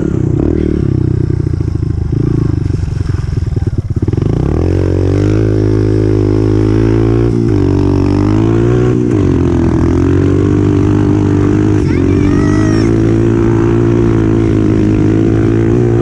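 Honda CRF125F dirt bike's single-cylinder four-stroke engine running low and uneven for the first few seconds. About four seconds in the revs climb, then hold fairly steady, with a few brief dips in throttle.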